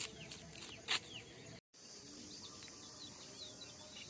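Small birds chirping in short falling notes over a steady high hiss. Two sharp clicks sound in the first second, and all sound drops out for an instant about one and a half seconds in.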